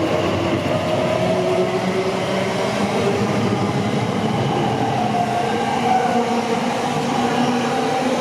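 A train running along the platform road, loud and steady, with several whining tones that drift slightly up and down in pitch over the rumble.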